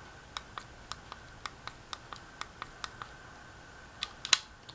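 Light plastic clicks from handling the Casablanca W85 wall control, about four a second, then two louder clicks near the end, over a faint steady high-pitched tone.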